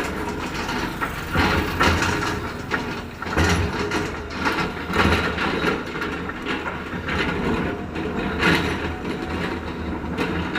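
Heavy construction machinery running: a steady low engine sound with irregular metallic clanks and knocks every second or two.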